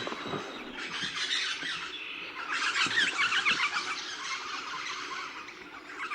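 Eastern rosellas calling: a dense run of high, overlapping notes, with short lulls about one and two and a half seconds in, loudest around three seconds in.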